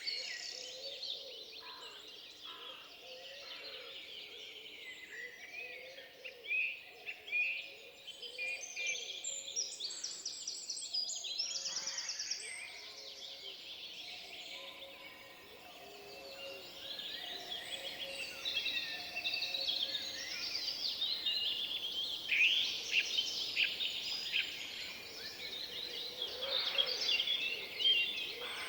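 A woodland dawn-chorus of several songbirds singing over one another, with many quick chirps and rapid trills, over a faint steady hiss of the forest.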